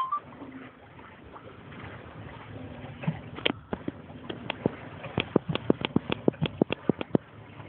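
A rapid series of sharp taps or clicks, a few scattered at first and then about five or six a second for a couple of seconds, over the steady rush of a yacht moving through water.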